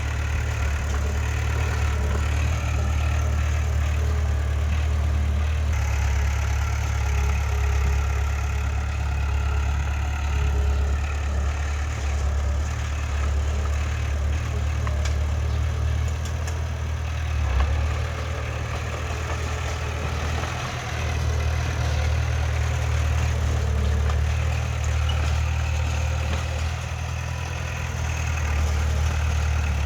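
Heavy earthmoving machinery's diesel engine running steadily with a deep, constant drone, and one short knock a little past the middle.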